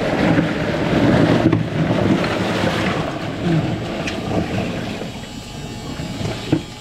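Icy water sloshing and splashing in a chest-freezer ice bath as a person climbs out of it.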